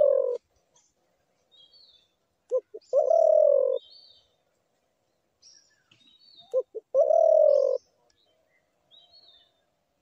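Spotted dove cooing: a phrase of two short notes followed by one longer coo, repeated about every four seconds, twice in full after the tail of an earlier one. Faint high chirps of small birds are heard between the phrases.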